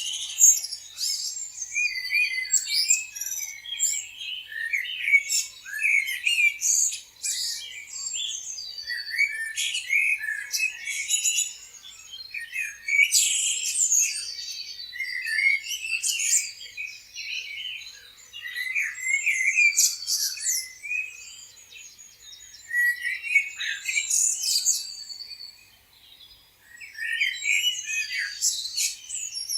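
Many songbirds chirping and singing at once, a dense chorus of overlapping high trills and twitters that swells and ebbs every few seconds.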